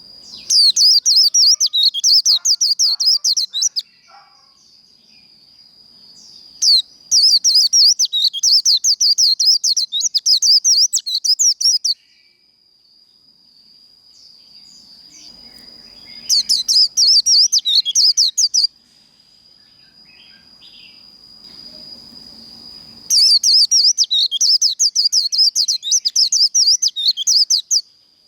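White-eye (vành khuyên) singing its rapid, chattering 'líu' song in four bursts of several seconds each, with short pauses between. A steady thin high tone runs underneath.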